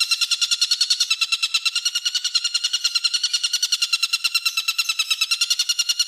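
A bird's harsh buzzing trill, the 'mbeset' type used in bird-training recordings: rapid, evenly spaced pulses at about ten a second, held at one pitch without a break.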